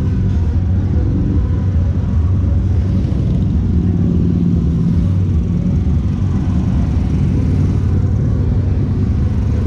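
Road traffic: a steady low rumble, with a vehicle engine passing about four to six seconds in.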